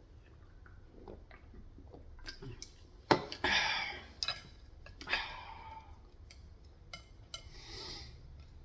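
Close-up eating sounds of Korean fried chicken: a few crisp, crunchy bites and chewing, with scattered small clicks. The loudest crunch comes about three seconds in, another about five seconds in.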